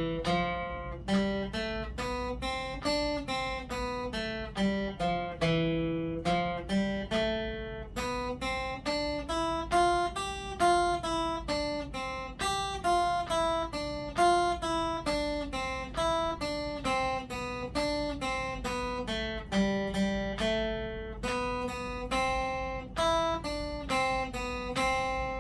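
Acoustic guitar playing a single-note melody, each note picked separately at an even pace. It is an eight-bar scale-pattern exercise in C major, played on the open-position notes.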